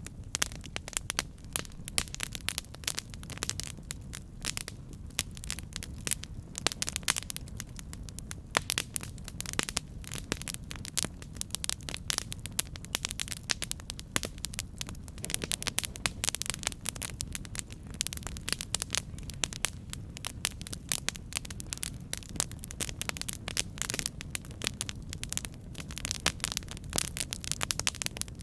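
Campfire burning, with dense, irregular crackles and pops over a steady low rumble of the flames.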